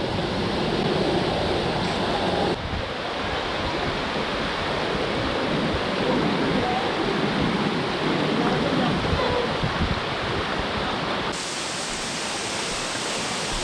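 Rushing water, a steady, even rush with no pauses. Its brightness shifts abruptly about two and a half seconds in and again near the end.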